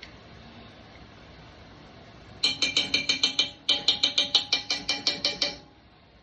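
A repeating alert tone: fast, identical ringing pips at the same pitch, about seven a second, in two runs. The first run starts a couple of seconds in and lasts about a second; after a short gap the second lasts about two seconds.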